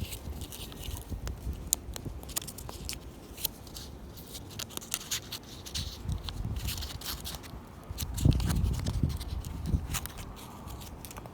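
Wood fire crackling, with many irregular sharp pops and snaps. A low rumble comes in briefly about eight seconds in.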